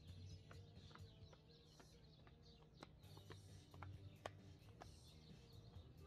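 Near silence with faint bird calls and a few soft clicks.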